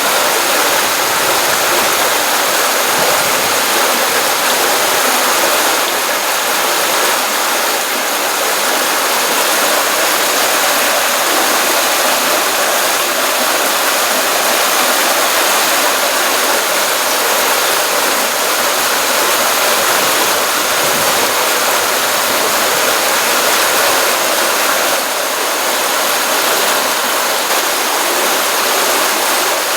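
Stream water running and splashing steadily, a continuous hiss-like rush with little low rumble, from a pond outflow swollen after a rainstorm.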